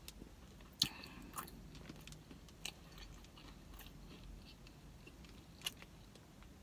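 Faint mouth-closed chewing of a burrito coated in crushed Flamin' Hot Cheetos, with a few short crunches. The sharpest crunches come about a second in and again near the end.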